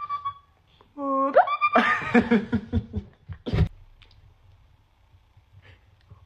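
A person's voice makes a short high squeal that rises sharply in pitch, followed straight away by about a second of laughter and a single sharp click.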